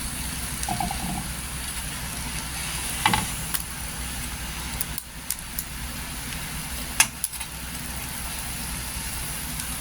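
A metal fork clicking against a pan a few times, with a steady low hum underneath.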